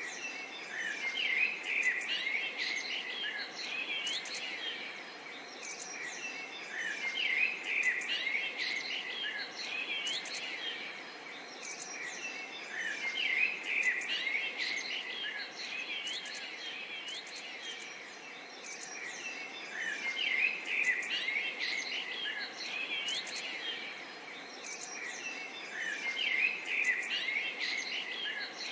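Several birds chirping and twittering in a park soundscape, in busy bursts that come back about every six seconds, over a steady faint hiss.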